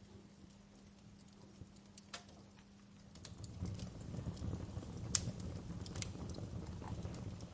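Wood fire crackling with irregular sharp pops and snaps. About three seconds in, a low rumble from the flames swells up and carries on under the crackle.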